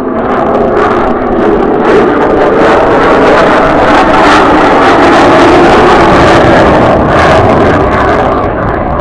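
F-35A Lightning II's single Pratt & Whitney F135 turbofan roaring, with a crackle, as the jet makes a pass: it swells over the first few seconds, stays loudest through the middle and eases off near the end.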